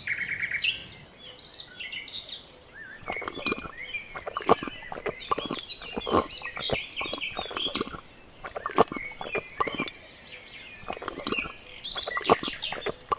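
Birds chirping and twittering in many short calls that rise and fall in pitch, with sharp clicks scattered among them.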